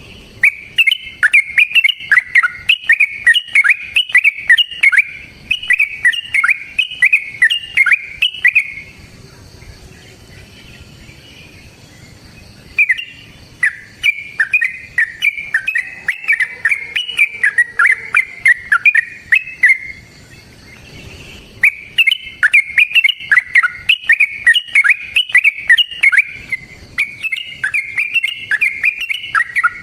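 Yellow-vented bulbul (trucukan) singing fast, chattering bubbly phrases in three long bouts, with two short pauses between them.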